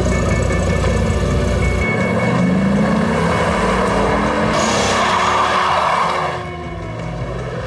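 V10 Dodge Viper engine running hard at speed, with tyre noise. The pitch rises a couple of seconds in and the sound peaks before cutting away abruptly near the end.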